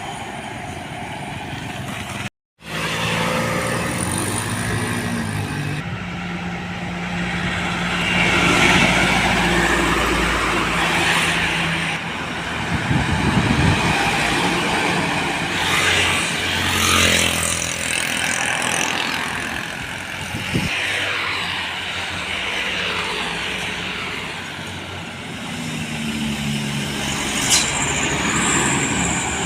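Road traffic: heavy diesel trucks and buses driving past one after another, their engines swelling and fading as each goes by. The sound cuts out completely for a moment about two seconds in.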